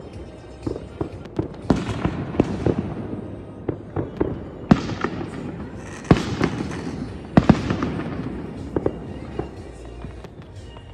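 Fireworks display bursting in a rapid, uneven string of bangs and crackles, with a few louder booms about two, five, six and seven and a half seconds in.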